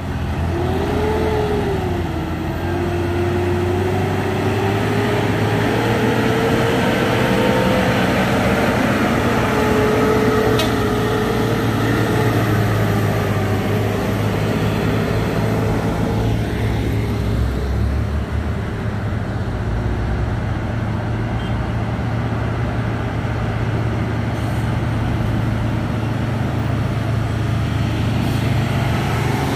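Heavy diesel truck engines running under load on a steep climb: a steady low drone, with a whine that wavers in pitch over the first half.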